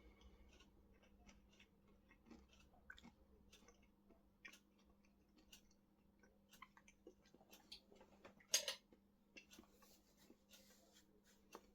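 Faint chewing of a piece of crispy breaded chicken, a scatter of small mouth clicks, with one louder click about eight and a half seconds in.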